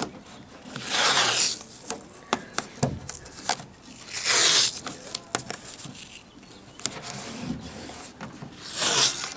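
Masking tape being pulled off the roll in three rasping strips, with small ticks and taps between them as the tape is pressed down around corners.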